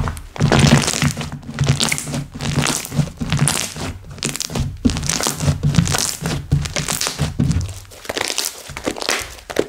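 Slime being kneaded and squished by hand, giving a busy run of crackling, crunching pops with soft low thuds. The thuds drop away about three quarters of the way through, leaving lighter crackles.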